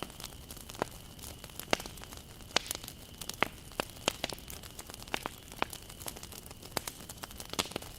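Wood fire burning, crackling and popping at irregular intervals, with many sharp snaps over a soft steady hiss.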